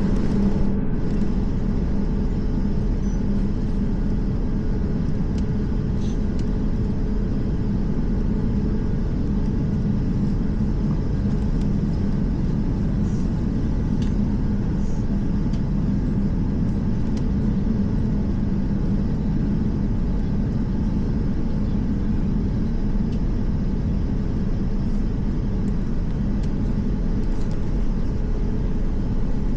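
Steady low rumble and hum inside an Airbus A350 cabin on the ground after landing, from the engines and cabin air, with a few faint ticks.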